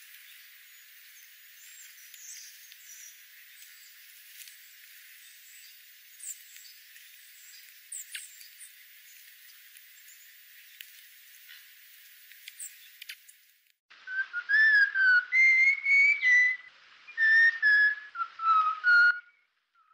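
A bird singing loud whistled notes that slur up and down in two short phrases, starting about two-thirds of the way in, over faint hiss with a few faint distant chirps.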